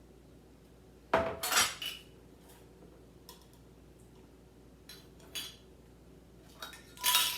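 Pickle jars and kitchen utensils knocking and clinking as pickles are moved from one jar into another, with a burst of clatter about a second in, a few lighter clinks, and another clatter near the end.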